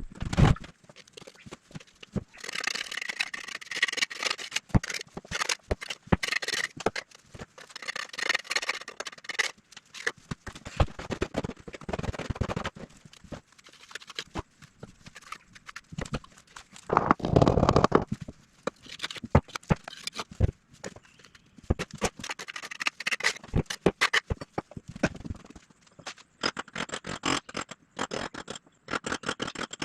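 Irregular knocking, tapping and scraping of hand work on building materials, with a louder, heavier stretch of handling about two-thirds of the way in.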